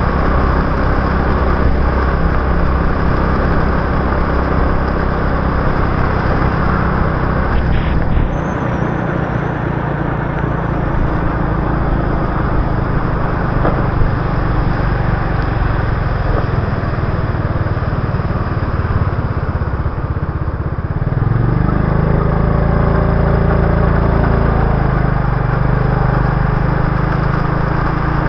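Motorbike engine running under way, with a steady hiss of wet road and air under it. The engine note changes about eight seconds in and again about twenty-one seconds in, where it settles into an even hum.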